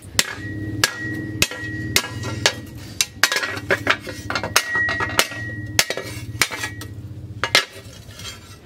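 Hand hammer striking plough-disc steel on an anvil, forging a machete blade, at about two blows a second; each blow rings briefly. A steady low hum runs underneath.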